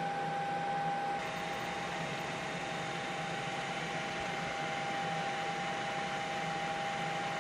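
Steady helicopter cabin noise: an even mechanical drone with a constant high whine, which shifts slightly about a second in.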